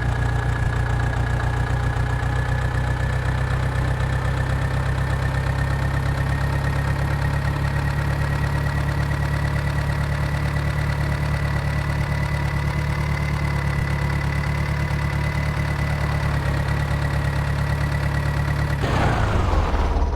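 Tractor engine running steadily under a high whine that climbs slowly in pitch, then falls away quickly near the end.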